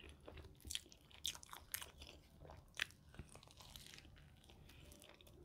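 Faint, close-miked chewing and biting of a lava beef cheeseburger: soft wet smacks and clicks, scattered irregularly.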